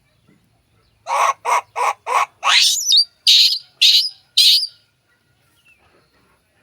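An animal giving a run of eight short, loud calls about half a second apart: four lower ones, then one that slides upward, then three high, shrill ones.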